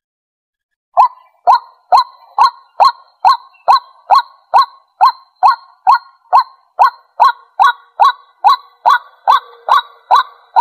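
White-breasted waterhen giving its territorial call: a loud, rapid run of short, sharp 'kwak' notes, about two a second, starting about a second in after a brief pause.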